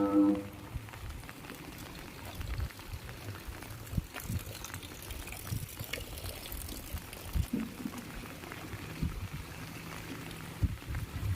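Rain falling: a steady wash of running water with irregular drips and taps.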